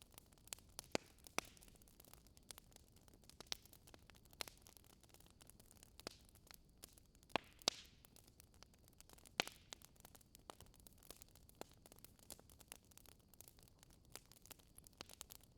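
Fireplace crackling: irregular sharp pops and snaps over a soft hiss.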